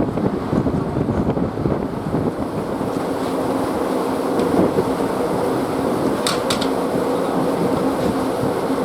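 Subaru horizontally opposed engine of an FH70 155 mm howitzer running steadily as the gun drives itself, with an even engine hum. Two sharp clicks come close together about six seconds in.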